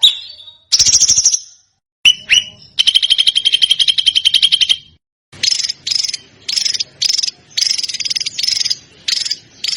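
Songbird calls in rapid, harsh rattling bursts ('tembakan'). First a short rasping trill, then two sharp whistled sweeps, then a fast rattling trill of about two seconds. After a brief gap comes a run of short rattling bursts, about two a second.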